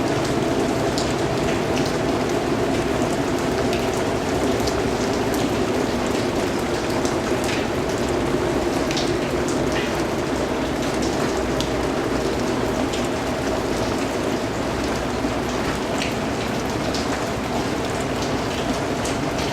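Steady rainfall, with a continuous hiss and many separate drops ticking on a surface.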